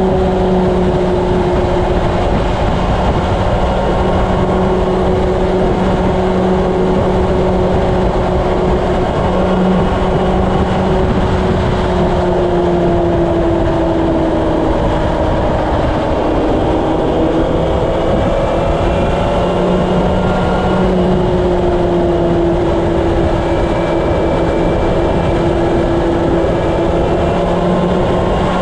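Honda CB750's inline-four engine running steadily at highway cruising speed, under heavy wind and road noise on the microphone. The engine pitch stays nearly constant, dipping slightly about midway and coming back up.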